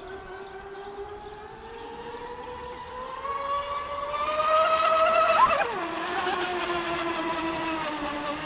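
Oxidean Marine Animal Twin RC catamaran's twin electric motors whining at speed. The whine climbs in pitch and grows louder, peaks about five seconds in, then drops sharply in pitch and runs on lower.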